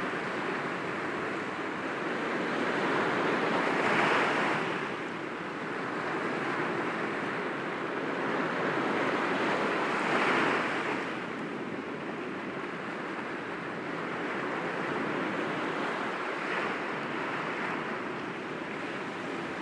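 Sea waves breaking gently against rocks: a steady wash of surf that swells louder twice, about four and ten seconds in.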